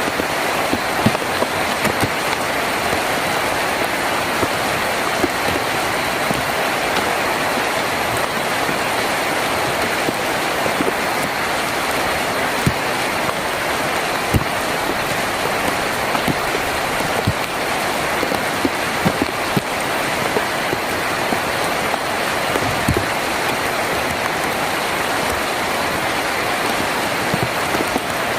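Steady heavy rain drumming on a tin roof, a dense even hiss with scattered louder individual drop hits.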